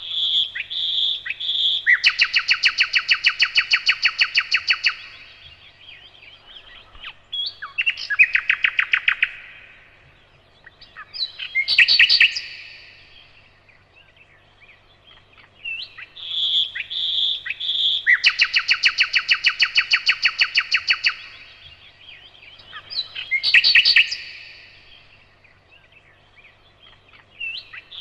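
Nightingale singing: distinct phrases a few seconds apart, several of them long runs of rapid, evenly repeated notes. The same sequence of phrases comes again about halfway through.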